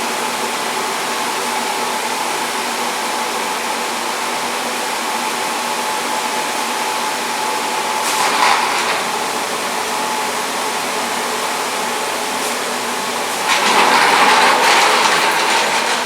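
Repurposed furnace squirrel-cage blower running, a loud steady rush of air with a faint steady hum. The rush grows louder briefly about eight seconds in and again from about thirteen and a half seconds on.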